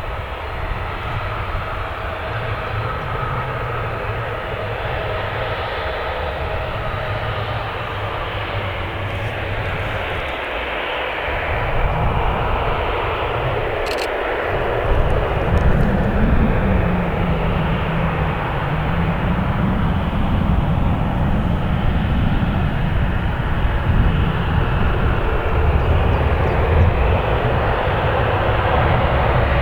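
Turbofan engines of a Ryanair Boeing 737-800 running at taxi power: a steady whine over a jet rush, with a low rumble that grows louder about halfway through.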